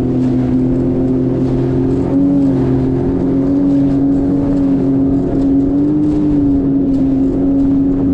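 Jet ski engine running steadily at cruising speed, its pitch wavering a little, over a rushing haze of noise.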